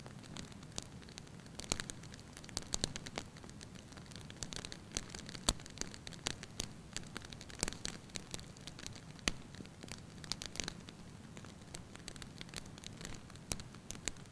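Wood fire in a fireplace crackling, with irregular sharp pops over a steady low rumble of flame; one louder pop about five seconds in.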